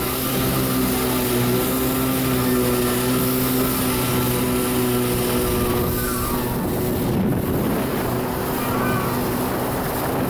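Kawasaki 650SX stand-up jet ski's two-stroke twin engine running at a steady speed, a constant hum with several pitches. From about six seconds in, rushing wind and water noise grows over it.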